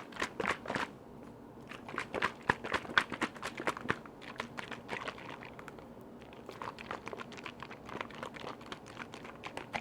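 Close-up ASMR tapping and handling of container lids: quick, irregular clicks and taps in clusters, thinning out briefly around the middle.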